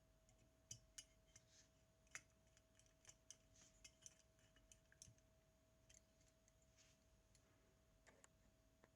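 Faint, irregular light clicks and taps of small tools and metal parts being handled, clustered in the first half, over a steady faint hum.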